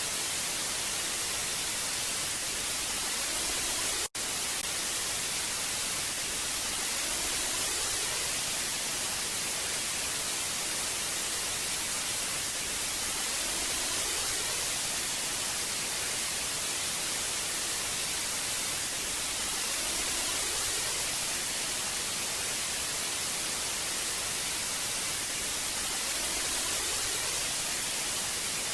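Old analog TV static: a steady hiss, strongest in the treble, that cuts out for an instant about four seconds in.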